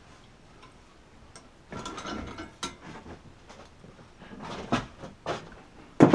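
Metal tools and compressor fittings being worked by hand: a short burst of rattling clatter, then a few sharp metallic clicks and knocks, the loudest near the end.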